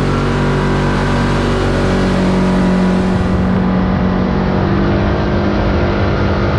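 Kawasaki KRX 4 side-by-side's parallel-twin engine running at a steady cruise, with wind and tyre rumble.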